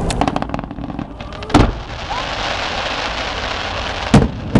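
Fireworks going off: a quick run of crackles at the start, a loud bang about a second and a half in and two more near the end, with a dense crackling hiss in between.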